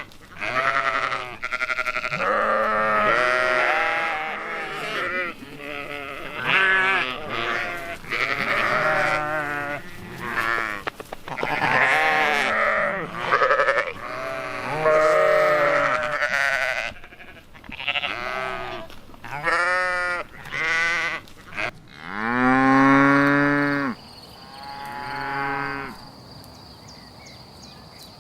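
A flock of sheep bleating, many wavering calls overlapping one after another. The calls stop a few seconds before the end, leaving a faint steady high tone.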